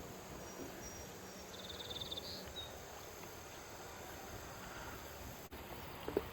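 Outdoor trail ambience: a steady hiss of breeze and distant traffic, with a brief, high, rapid trill about one and a half seconds in, and a footstep near the end.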